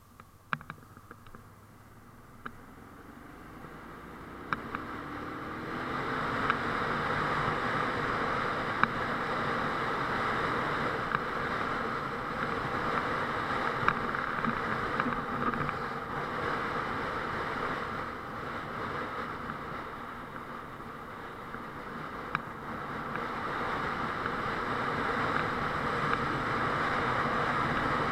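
Honda Transalp 650 motorcycle on the move, its engine speeding up over the first few seconds, then running steadily under a constant rush of wind noise.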